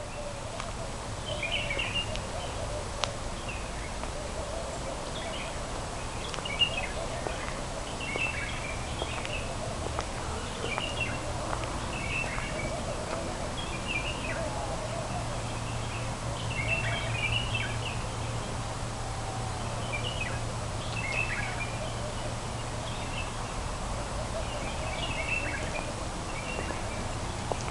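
Outdoor ambience of small birds chirping, short calls scattered throughout, over a steady low hum.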